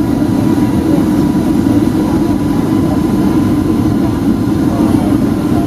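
Cabin noise inside a Boeing 757-200 with Rolls-Royce RB211 engines just after touchdown: a steady, loud rumble of engines and airframe as the jet rolls out on the runway, with a thin steady whine.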